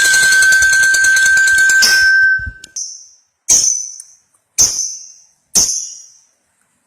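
Lovebird chattering in a long, dense high-pitched trill over a steady high tone for about two and a half seconds, then stopping. Three short, sharp high calls follow, about a second apart, each fading away quickly.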